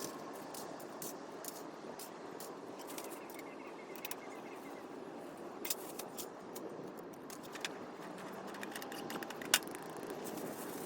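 Camping gear being handled and packed away: scattered light clicks and clinks, one sharper knock near the end, over a steady background rush.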